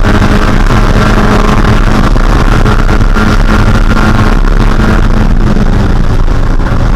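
Mazda Spec Miata's 1.6-litre four-cylinder engine running loud at high, steady revs under racing conditions, with heavy wind and road noise.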